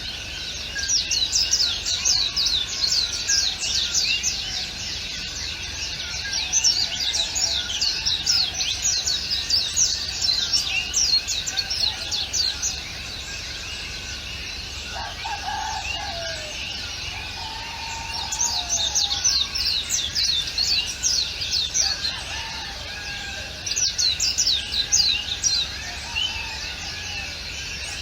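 Several small birds chirping, rapid high twittering notes that come in bursts a few seconds long, with a few lower calls mixed in about halfway through.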